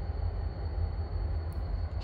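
Low, steady rumble of a freight train approaching behind three EMD GP39-2 diesel locomotives.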